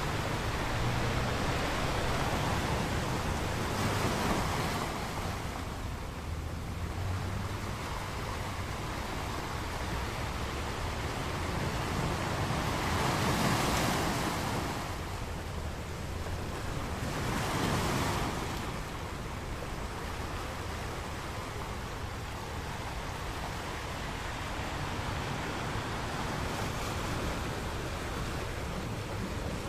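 Ocean waves breaking and washing on a beach, a steady rushing surf with swells peaking a few seconds apart.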